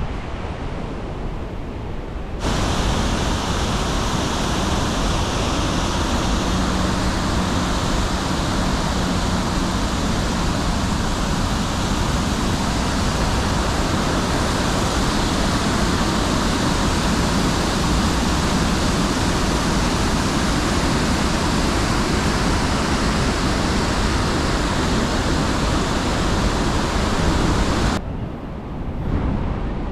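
Niagara Falls' falling water rushing loud and steady as one dense, unbroken wash of noise. It cuts in abruptly a couple of seconds in and drops away just as abruptly near the end.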